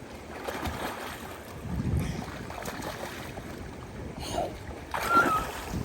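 Water splashing and lapping in uneven surges, with wind buffeting the microphone. A short high squeak cuts through about five seconds in.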